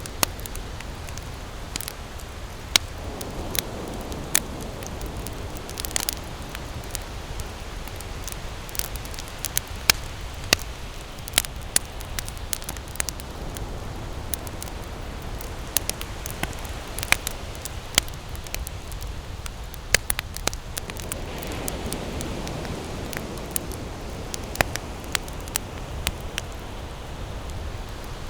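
Wood campfire burning with many sharp, irregular crackles and pops over a steady low rumble. A soft rushing swell rises and fades twice, once near the start and again past the middle.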